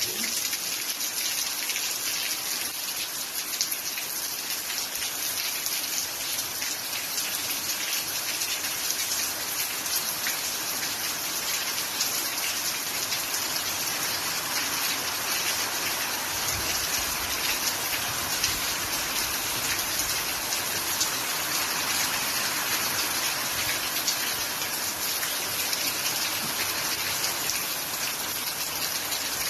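Steady rain falling, a dense even hiss of drops with fine pattering.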